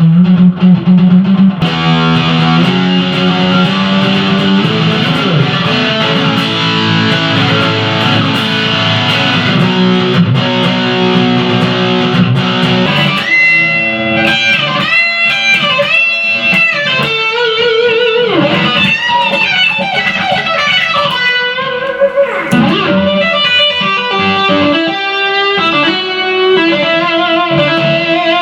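Electric-guitar music: a dense, full band section, then, about halfway through, a melodic lead line with pitch bends and vibrato over sparser backing.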